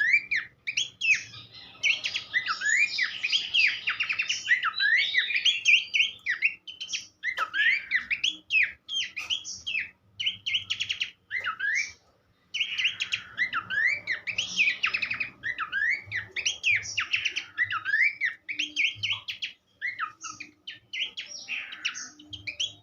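Pelanduk semak babbler singing a fast, varied run of chirps, trills and slurred whistles, with two brief pauses about halfway through.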